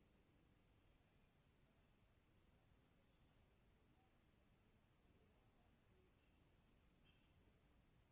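Faint insect chirping, a high-pitched trill pulsing evenly a few times a second, over near silence.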